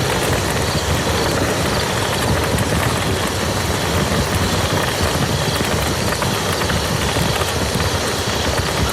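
Steady heavy rain falling on a muddy field: an even, dense hiss with many separate drop impacts ticking through it.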